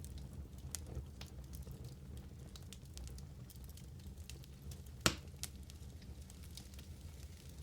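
Wood fire in a fireplace crackling, with scattered small pops over a steady low rumble and one louder sharp crack about five seconds in.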